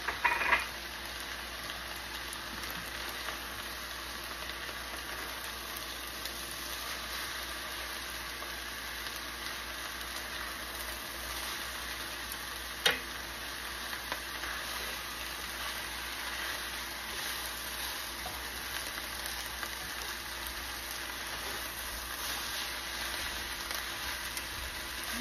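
Beef and ramen noodles sizzling steadily as they stir-fry in a pan, tossed with chopsticks. There is a single sharp click about halfway through.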